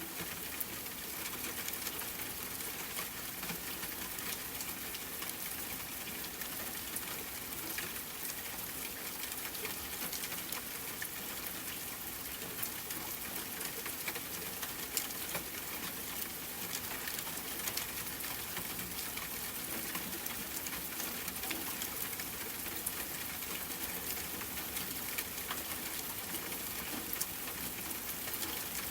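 Steady rain pattering: an even hiss scattered with many light drop ticks.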